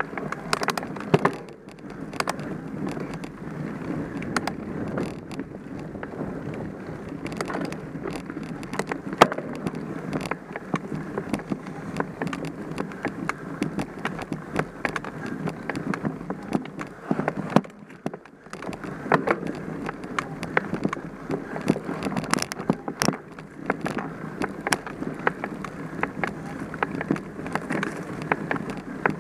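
Mountain bike ridden over a dirt trail: steady tyre and rolling noise with the bike rattling, dotted with many sharp clicks and knocks.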